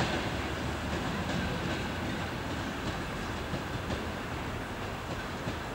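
Passenger coaches of a departing train rolling away over the station tracks and points, the wheels' steady running noise slowly fading.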